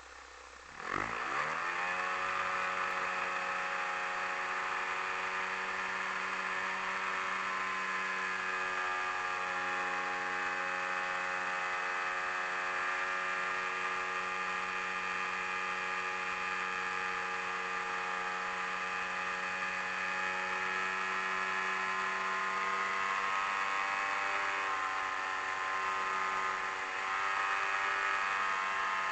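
AGM 30 two-stroke petrol engine of a quarter-scale Super Cub model plane catching about a second in, its pitch sweeping up quickly, then running steadily, picked up by the onboard camera's microphone. The pitch rises a little near the end.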